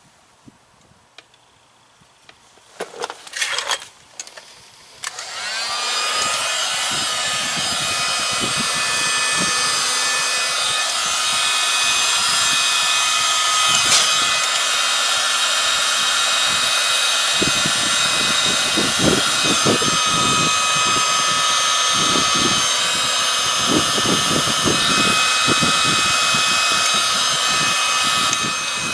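Handheld electric heat gun switched on about five seconds in, spinning up and then running with a steady fan whine and rush of air. A few knocks of handling come just before it starts.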